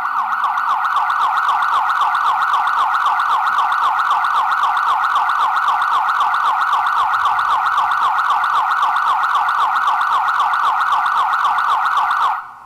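Emergency vehicle siren in a fast yelp: quick repeating pitch sweeps, several a second, held loud and steady, then cutting off suddenly near the end.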